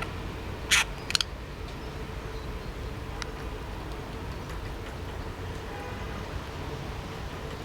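Two sharp clacks close together about a second in, then a fainter single click later, from a budgie knocking its homemade toy about, over a steady low hum.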